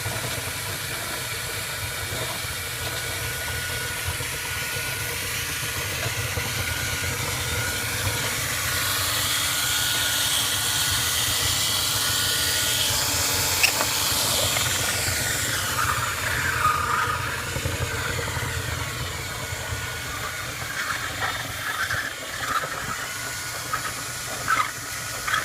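Dryer vent cleaning equipment running steadily: a motor with a rush of air through the duct, and a high whine that shifts in pitch in the middle.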